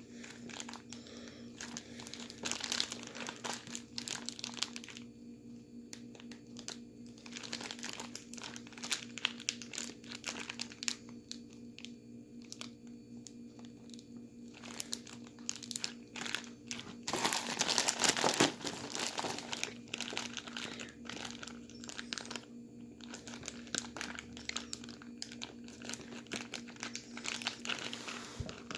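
Plastic bag of ice and salt being shaken and squeezed: irregular bouts of crinkling plastic and crunching ice, loudest about two-thirds of the way through.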